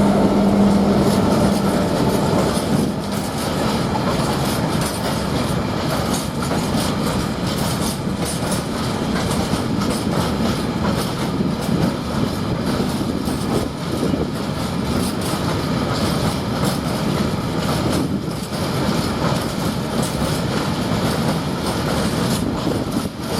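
A Class 66 diesel locomotive's two-stroke V12 engine passes with a steady low note that fades within the first few seconds, followed by a long rake of freight wagons rolling past with continuous rumbling and clattering wheels.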